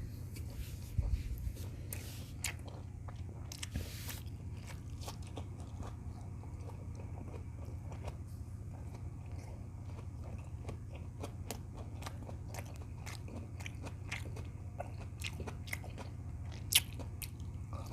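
Close-up chewing and biting of beef tocino and rice: many small wet mouth clicks and crunches, with one louder click near the end. A steady low hum runs underneath.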